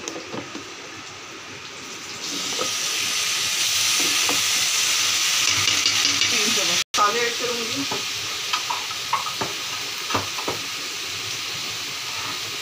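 Ginger-garlic paste dropped into hot oil in a steel karahi, sizzling loudly from about two seconds in. The sound cuts out for an instant about seven seconds in. It then settles to a steady frying sizzle with clinks and scrapes of a metal slotted spoon stirring the paste through the onions.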